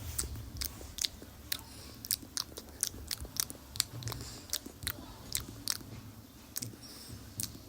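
Mouth eating sounds: chewing a mouthful of rice and buffalo curry, with sharp wet smacking clicks about two to three a second.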